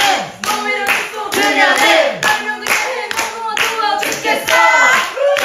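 People clapping in time, about three claps a second, while voices sing along.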